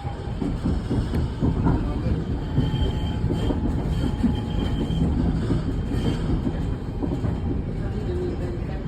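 Île-de-France T12 tram-train running on its rails: a steady low rumble of wheels and motors, with faint thin high tones from the wheels or drive coming and going.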